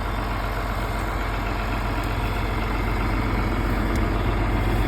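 John Deere tractor engine idling steadily, with a couple of faint ticks.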